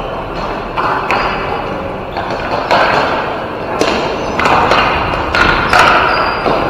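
Ball hockey game play: a string of sharp knocks and thuds from sticks striking the ball and the ball and players hitting the boards, each knock leaving a short echo.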